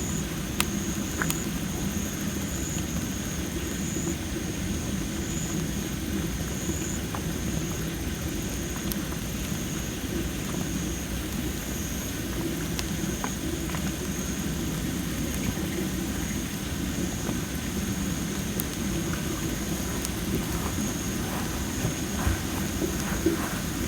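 Wood fire of well-dried masaki (Japanese spindle tree) logs burning, with a few sharp crackles and pops scattered over a steady low rumble and a steady high-pitched drone.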